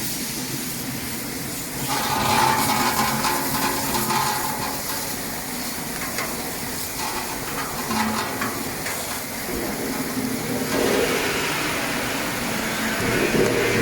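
Drum-type vegetable washing machine running: a steady hissing, rushing noise of water and machinery, louder from about two seconds in.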